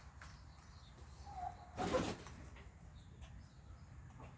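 A short bird call from the poultry, followed about two seconds in by a brief noisy burst, the loudest sound, over a quiet background.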